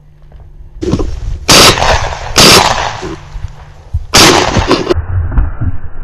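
Three shotgun shots fired in quick succession at flushed quail, the first two about a second apart and the third nearly two seconds later. This is a hunter shooting at a covey rise and bringing down two birds.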